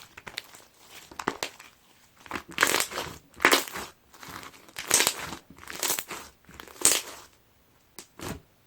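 Clear slime packed with plastic fishbowl beads being squeezed and pressed by hand, each squeeze a crunchy crackle of beads popping through the slime. Light crackles at first, then about five loud squeezes roughly a second apart, and two short clicks near the end.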